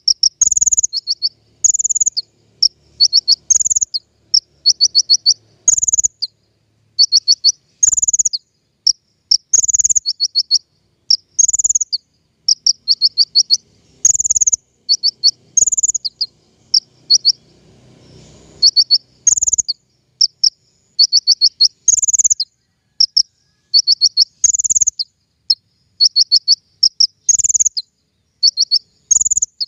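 Recorded songbird song played as a master and lure track: short, high-pitched phrases of rapid chipping notes, each ending in a sharper note, repeated every second or two.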